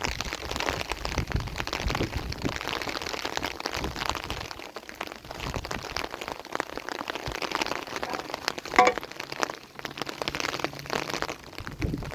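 Steady rain pattering on a surface, a dense run of small drops. About nine seconds in, a brief high-pitched tone sounds once over the patter.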